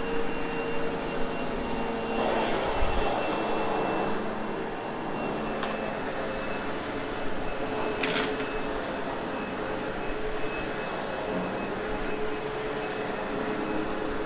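Sebo X8 upright vacuum cleaner running steadily with a constant motor whine. About two seconds in the suction noise grows rougher and louder for a couple of seconds, and there is a brief sharp click about eight seconds in.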